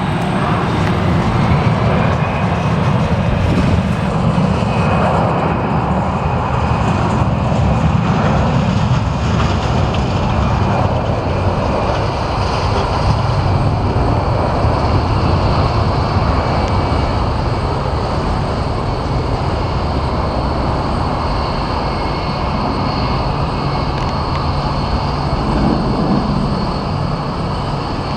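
Airbus A320 jet engines at takeoff power: a steady loud rush with a thin fan whine over it, loudest in the first few seconds and slowly easing as the aircraft moves away.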